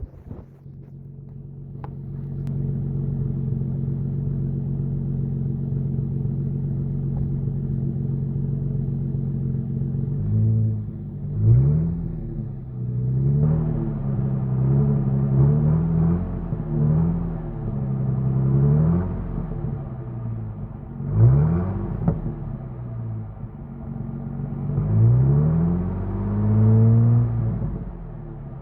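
2000 Ford Mustang's 3.8-litre V6 heard at the exhaust, idling steadily for about ten seconds, then revved again and again in short blips, the pitch rising and falling with each rev.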